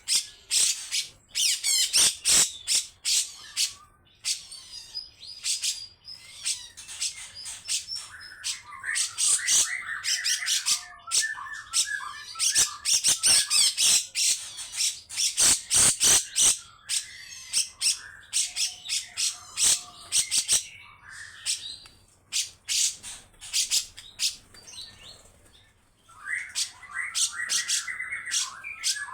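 Grey-cheeked bulbul (cucak jenggot) giving long series of harsh, rasping calls, with bursts of lower chattering notes in between.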